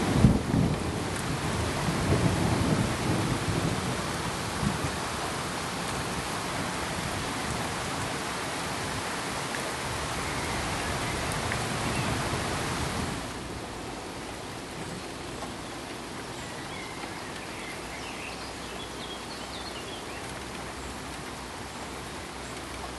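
Steady rain with low rolls of thunder in the first few seconds. About thirteen seconds in, it cuts off suddenly to a quieter, even hiss of pink noise.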